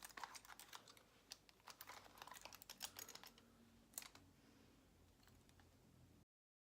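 Faint, irregular clicks and crackles of hair and a curling iron being handled close to the microphone, a few ticks a second, stopping abruptly about six seconds in.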